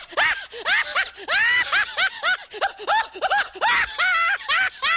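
A man laughing hard in quick, rising-and-falling bursts, several a second.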